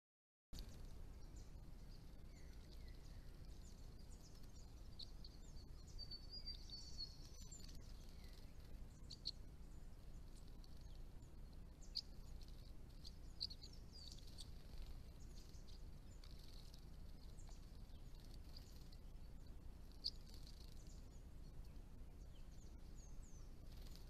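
Faint, scattered high chirps of small birds, with a brief twittering trill about six seconds in and a few sharp ticks, over a steady low hiss.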